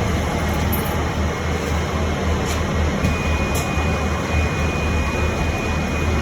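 Steady cabin noise inside an electric bus: a low rumble and a broad hiss of the running bus and its ventilation, with a thin high steady tone joining about three seconds in.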